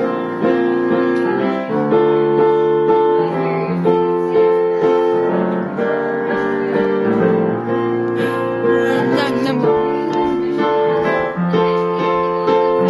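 Piano music, with notes and chords struck about every half second.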